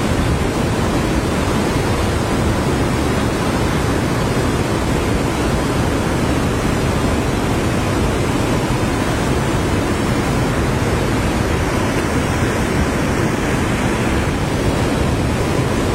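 Steady rushing of fast-flowing river water swirling in a large whirlpool, an even noise without breaks, heaviest in the low and middle range.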